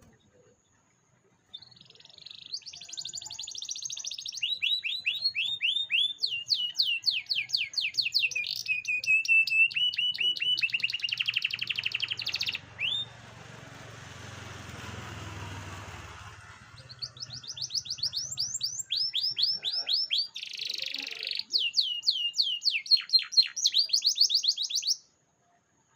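Domestic canary singing a long, fast song of rapidly repeated trills and rolling phrases. It breaks off about halfway through while a soft hiss takes over for a few seconds, then resumes and stops shortly before the end.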